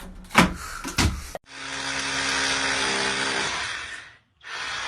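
Two short knocks, then a small electric motor running steadily with a hiss and a low hum for about two and a half seconds, stopping, then starting again briefly near the end.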